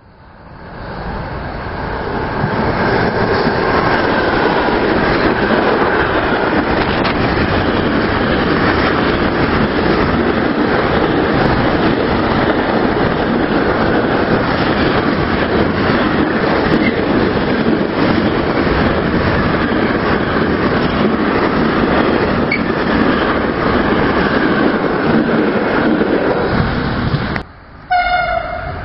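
A train passing close by on the line: the rolling wheel-on-rail noise builds over the first couple of seconds, then holds loud and steady for about 25 seconds. Near the end it cuts off abruptly and a short pitched tone follows.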